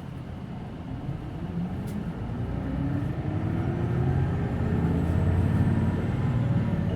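Hino Blue Ribbon City Hybrid bus heard from inside the cabin pulling away: engine and drive noise build steadily louder, with a whine that rises in pitch over the first few seconds as the bus gathers speed.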